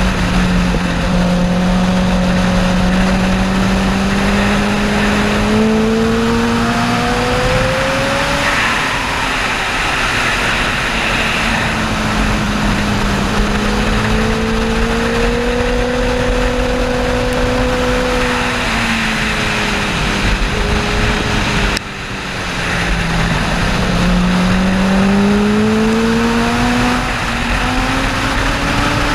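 Honda sport bike's engine at speed, its note climbing slowly through each gear, dropping at the shifts and off the throttle for corners, then pulling up again. Heavy wind rush over the microphone runs underneath, with a short drop in loudness about 22 seconds in.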